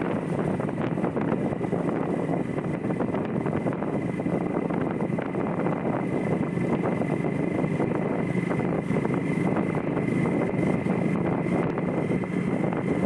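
Motorbike running along the road, with wind buffeting the microphone and a faint steady high whine.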